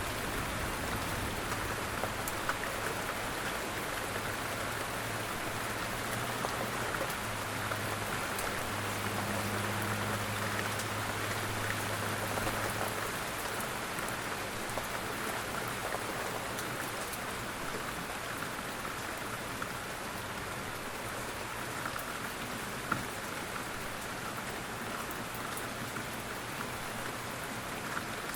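Steady rain falling, with scattered small drop ticks. A low hum sits under the rain for roughly the first half and then fades out.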